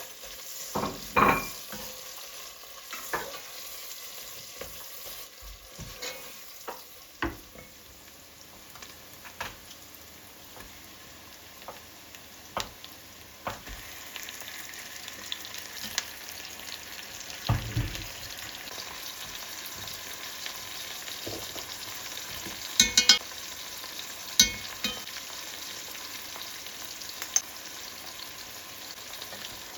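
Kitchen cooking sounds: a steady sizzling hiss, like food frying in a pan, with scattered knocks and clicks of utensils being handled. Two sharp clinks come a little past the middle.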